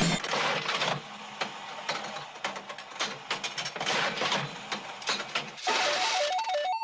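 Irregular mechanical clicking and ratcheting, with music coming in near the end.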